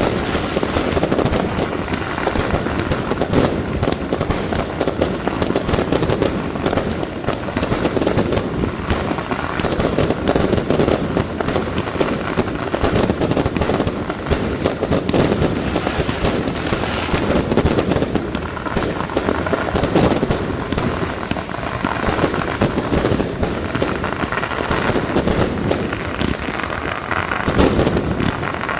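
Fireworks and firecrackers going off nonstop: a dense, rapid crackle of bangs with no pause.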